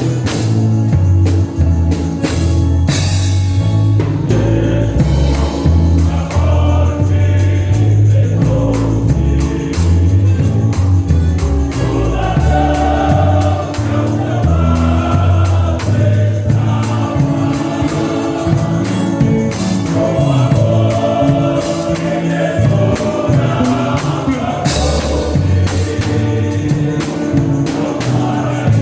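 Gospel music: a band with a strong bass line and drums, joined about four seconds in by a group of voices singing together.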